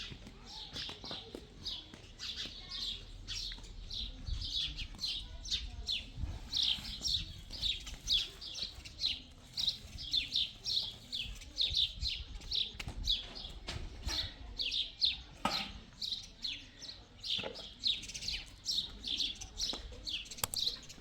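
Small birds chirping continuously: short, high, downward-sliding chirps, a few a second, with no break.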